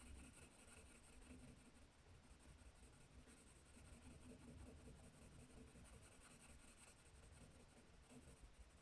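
Faint scratching of a colouring tool on paper, barely above room tone.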